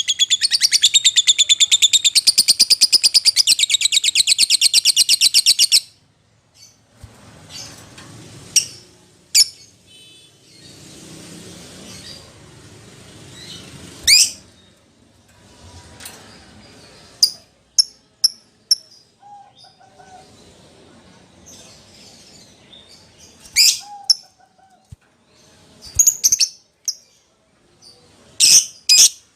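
Lovebird calling: about six seconds of loud, rapid, high-pitched chattering, then single sharp, shrill chirps spaced by pauses, and a quick run of chirps near the end.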